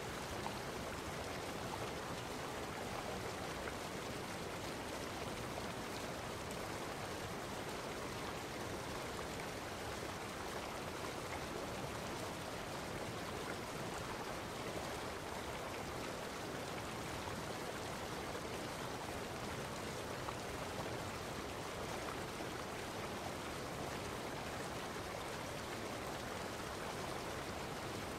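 Steady, unbroken rushing of running water, like a stream.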